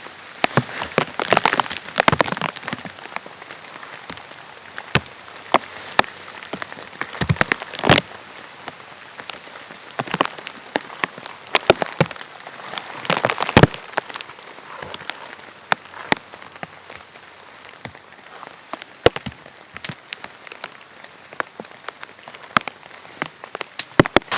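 Rain falling, with big drops striking in irregular sharp taps over a steady hiss.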